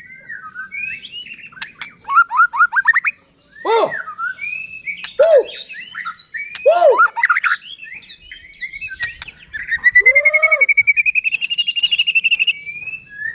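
White-rumped shama (murai batu) singing a varied song of whistled phrases, down-curving notes and quick chattering runs, with a long rapid trill near the end.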